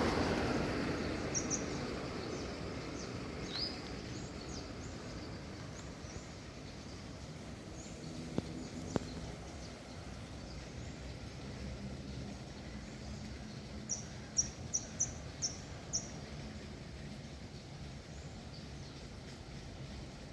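A small songbird chirping intermittently in short high notes, with a quick run of about six chirps a little past the middle, over steady background noise.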